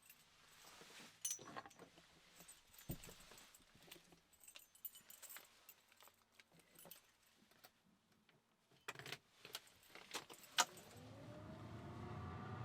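Keys jangling and small clicks and rattles as keys and gear are handled. Near the end comes a sharp click, then a low hum with a whine that rises in pitch.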